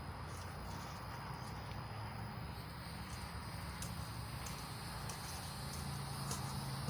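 Emery cloth being rubbed over a crankshaft journal, a steady scratchy rasp of abrasive cloth on polished steel. A low hum grows louder near the end.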